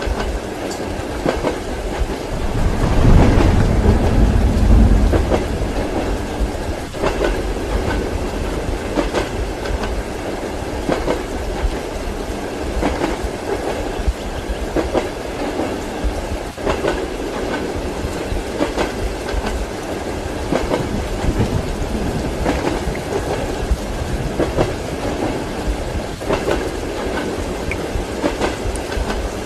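Train wheels clacking over rail joints as heard inside a passenger carriage, a sharp clack about every two seconds over a steady rushing hiss of rain and running noise. A low rumble swells about three seconds in and fades a couple of seconds later.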